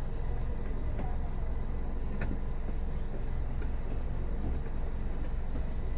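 Car engine idling steadily, with a few faint clicks over it.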